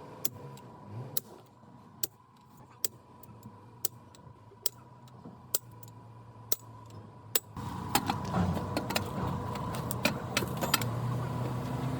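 Metal tools and parts clinking during work on a truck wheel hub: single sharp metallic clicks about once a second, then from about seven and a half seconds in a busier run of clinks and clanks over louder background noise.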